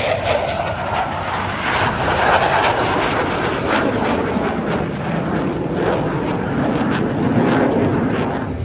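Blue Angels F/A-18 Super Hornet jets flying past, a loud jet roar whose pitch sinks as they go by.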